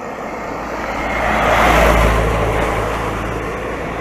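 A motor vehicle passes close by on the road, its engine and tyre noise building to loudest about two seconds in and then fading away.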